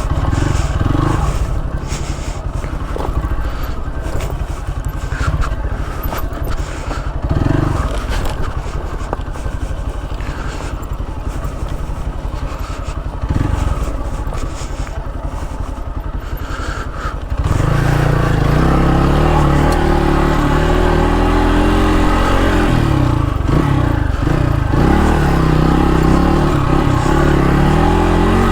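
Dirt bike engine running at low revs, with scraping and clattering over rough ground. About two-thirds of the way in the engine suddenly gets louder and revs up and down under throttle.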